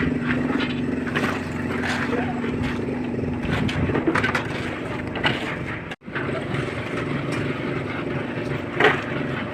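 Small concrete mixer machine running steadily, with irregular knocks and scrapes of tools and concrete over it; the sound cuts out for an instant partway through.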